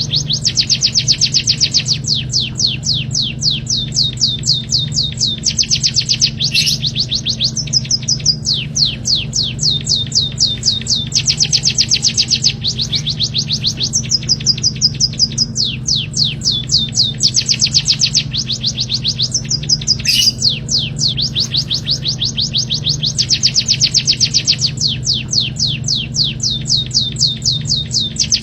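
Songbird tutor recording for training cage birds: rapid trills of fast, evenly repeated high chirps in bouts of one to two seconds with short breaks, over a steady low hum.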